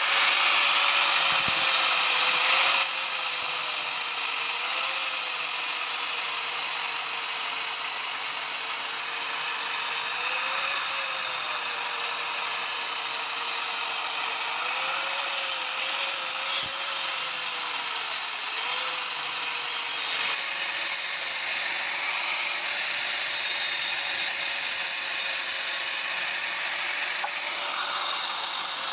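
Electric power tool motor running steadily with a whine that wavers slightly in pitch as it takes load on metal. It is louder for the first three seconds or so, then settles.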